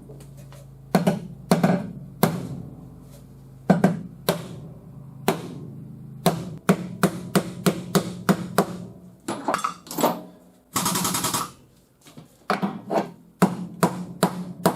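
A hammer striking the steel quarter panel again and again at an irregular pace, the blows coming faster in the second half. The panel is being hammered while under pull from a frame machine to work the damage out. A short hissing burst comes about eleven seconds in.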